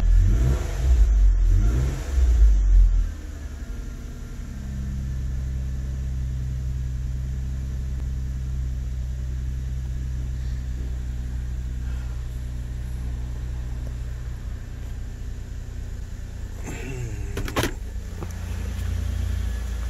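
2010 Nissan Maxima's 3.5-litre V6 running at a fast idle that settles lower, steady and even from about four seconds in. Heavy low rumbles in the first three seconds, and a sharp click near the end.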